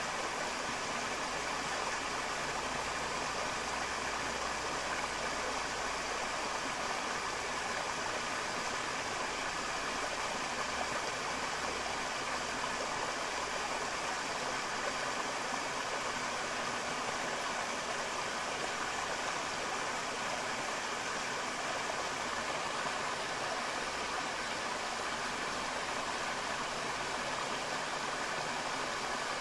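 River water flowing over rocks, a steady unbroken rush.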